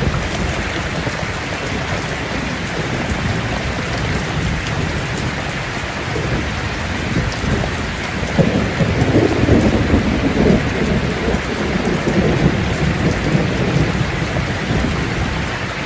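Steady heavy rain falling, with a rumble of thunder swelling up about halfway through and fading over a few seconds.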